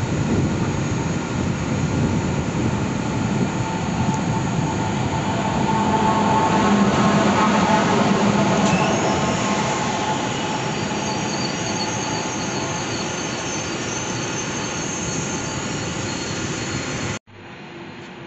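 DB class 101 electric locomotive and its coaches running along the platform track close by, a loud steady rumble joined about halfway by thin, high wheel squeal. Near the end the sound cuts off abruptly to a much quieter station background.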